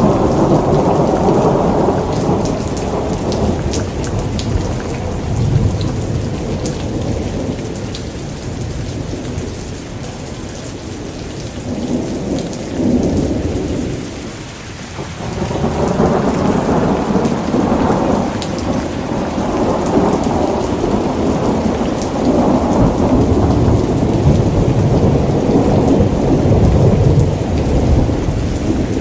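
Steady rain with long rolls of thunder: a rumble swells at the start, fades to a lull about halfway, then builds again into sustained rolling through the second half. Scattered sharp crackles from a wood fire sit on top.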